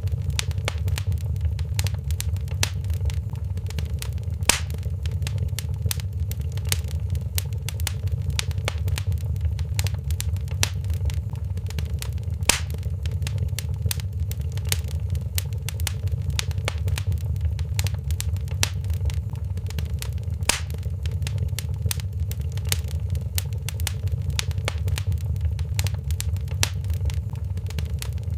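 Wood fire crackling in a fireplace: a dense run of small crackles and snaps over a steady low rumble, with three louder pops about four, twelve and twenty seconds in.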